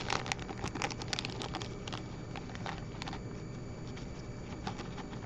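Light clicking and rattling of small beryllium copper gasket blanks being handled as one is taken out of its container, dense for about the first two seconds and then only occasional clicks.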